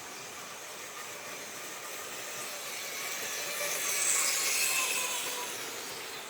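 Märklin HO model train running along the track: wheels rattling on the rails and a small motor whining. It grows louder to a peak about four seconds in, then fades.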